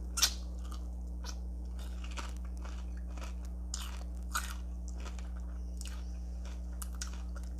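Close-miked eating of a crunchy Flamin' Hot Cheeto-crusted fried chicken wing: a sharp bite about a quarter second in, then scattered crunches as it is chewed.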